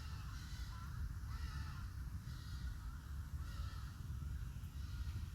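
A bird calling over and over, about once a second, over a steady low rumble.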